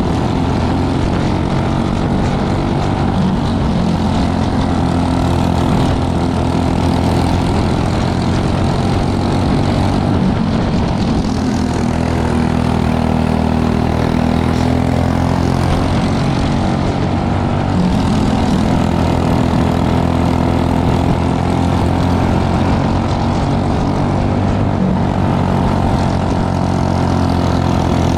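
Briggs & Stratton LO206 four-stroke kart engine running at racing speed, a steady drone with small rises and dips in pitch.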